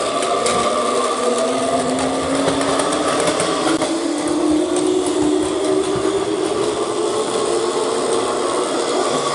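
Electric train running, its traction motors whining and rising steadily in pitch as it accelerates, over rumbling running noise.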